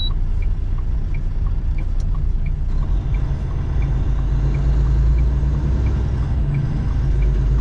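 Semi-truck's diesel engine and road noise heard inside the cab while driving: a steady low rumble, with a faint tick repeating a little under twice a second.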